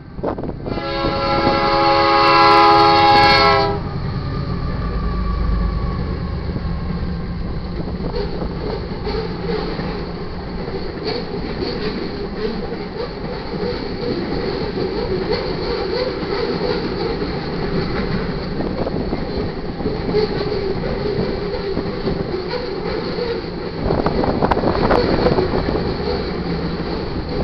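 Freight locomotive's air horn sounding one loud blast of about three seconds about a second in, then a BNSF freight train led by a GE Dash 9-44CW rolling through the crossing: the steady rumble and clickety-clack of freight cars on the rails, growing louder near the end.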